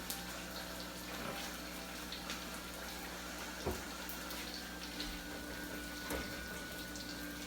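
Steady hissing kitchen background with a few short light clicks and knocks spread through it.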